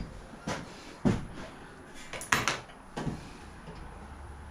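A few separate knocks and clicks of metal parts and tools being handled while working on the mini bike's wheel, about five in all, the sharpest a second in and two in quick succession a little past two seconds.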